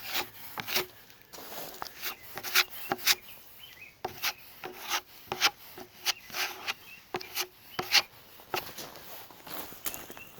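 A hand tool scraping and tapping as fiber-filled filler is worked into holes in a fiberglass rudder. The short scrapes come a few a second in an uneven rhythm.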